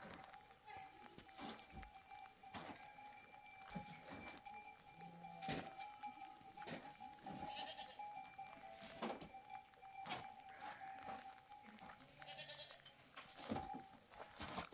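Livestock bleating faintly a few times, among scattered sharp ticks and taps.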